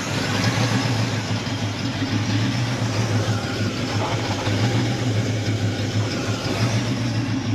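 A 1981 Trans Am's replacement 400 V8 engine running steadily with an even, unchanging note and no revving.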